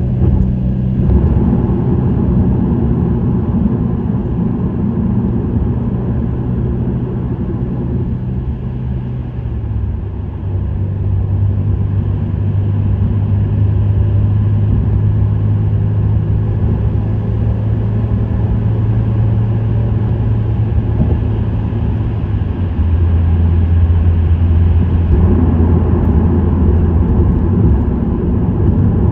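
Subaru WRX STI's turbocharged flat-four running through an STI Performance muffler while driving at speed, a steady low drone. The engine note drops in pitch about ten seconds in and again around twenty-two seconds as the revs fall, then grows louder and rougher near the end.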